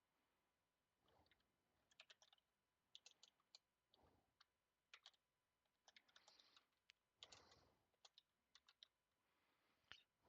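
Faint computer keyboard typing: irregular key clicks in short runs.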